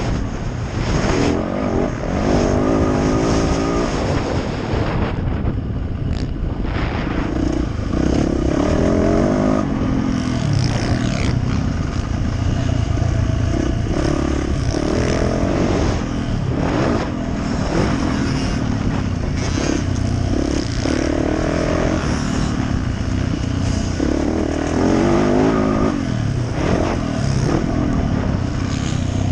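Yamaha YZ450F single-cylinder four-stroke dirt bike engine being ridden hard, revving up and falling back over and over as the throttle opens and closes through the corners and straights. There is a short easing-off about five seconds in.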